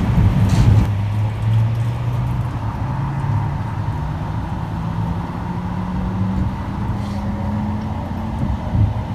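Electric train accelerating: a motor whine that climbs in pitch in steps over a steady low running rumble.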